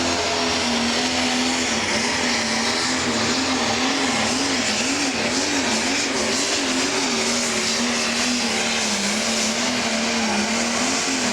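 Pro Stock pulling tractor's turbocharged diesel engine running flat out under load as it pulls the sled. Its pitch holds high and wavers up and down through the middle.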